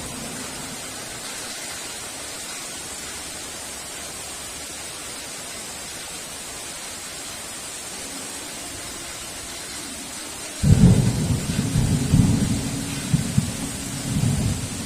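Steady heavy rain hiss; about ten seconds in, a sudden loud low rumble of thunder starts, rolls on for about four seconds and cuts off abruptly.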